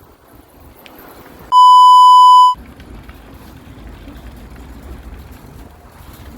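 An edited-in censor bleep: one loud, steady, high beep about a second long, starting about a second and a half in, with the rest of the sound cut out under it. Otherwise only faint outdoor background.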